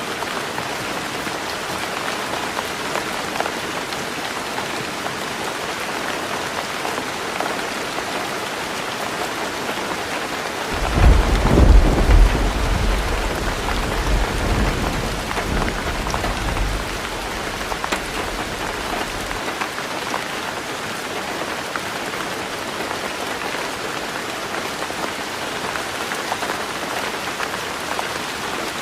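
Heavy rain drumming steadily on a tin roof. About a third of the way in a deep thunder rumble rolls in, loudest for a second or two, then fades over the next several seconds.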